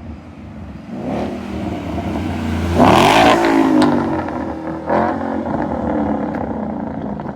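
2014 Mustang GT's 5.0 V8 running through a Roush axle-back exhaust with the resonators deleted, idling and revved: a strong rev about three seconds in and a short blip near five seconds, then back to a steady idle.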